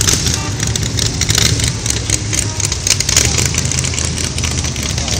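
Old car engines running slowly in a steady low rumble as pre-1979 cars and trucks cruise by, with a busy crowd noise over it.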